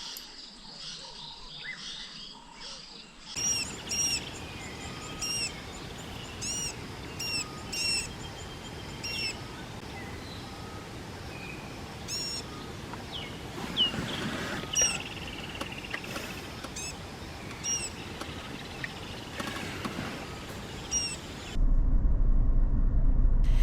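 Wild birds calling with many short, repeated chirps over a steady outdoor hiss. Near the end it gives way to a louder steady low rumble.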